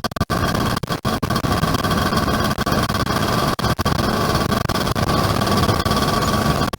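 A Yamaha F1ZR's small two-stroke engine running under way, blended with steady riding noise. There are a few brief dropouts in the sound in the first second or so.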